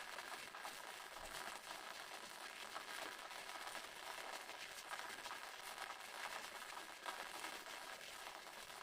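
Waterfall: water falling and splashing steadily, an even hiss-like rush with a fine crackle and little low rumble.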